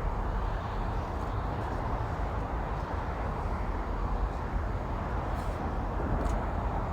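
Steady low outdoor background rumble with no clear single source, with a few faint ticks about a second in and again near the end.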